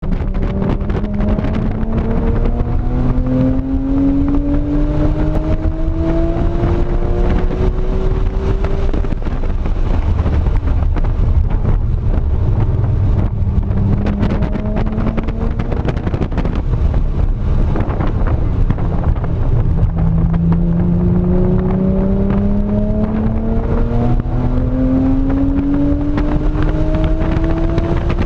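2007 Porsche 911 GT3's flat-six engine heard from inside the cabin on a track lap, pulling hard with its pitch rising over the first eight seconds or so. It then eases off lower through the middle while the car brakes and corners, and pulls hard again with a long rising pitch over the last eight seconds.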